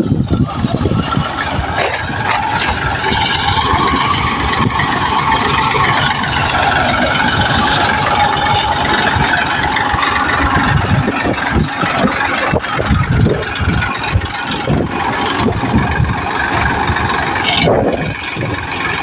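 Tractor engine running steadily while driving a pearl-millet (bajra) threshing machine, with a continuous mechanical rattle and whirr from the thresher.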